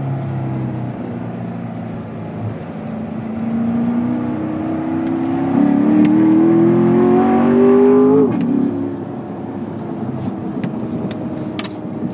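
2014 Corvette's 6.2-litre LT1 V8 heard from inside the cabin under acceleration on track. From about four seconds in, the revs climb steadily, and just past eight seconds the pitch drops sharply at a gear change, settling lower with road and wind noise.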